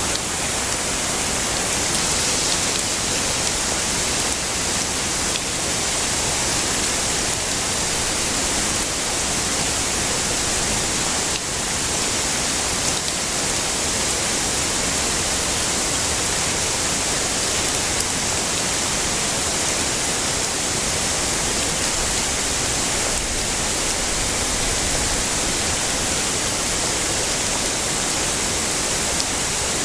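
Heavy rain falling as a steady, dense hiss, with a few faint drop ticks scattered through it.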